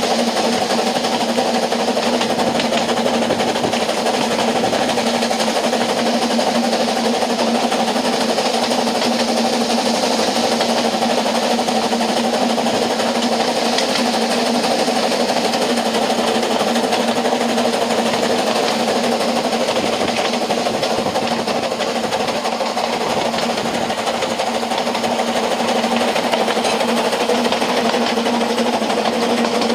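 Narrow-gauge steam train in motion, heard from an open carriage window: the steady running noise of the wheels on the rails, with a steady drone underneath.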